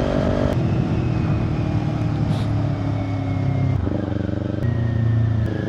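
Motorcycle on the move: the engine runs under a steady rush of wind noise around a Gille 873 Celeste helmet. The engine note shifts in steps about half a second in and again near the end.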